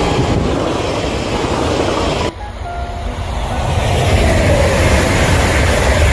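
High-speed electric trains passing at speed: a steady rushing rumble of wheels on rails, with a faint tone sliding down in pitch as a train goes by. About two seconds in, the sound cuts abruptly to a second passing train.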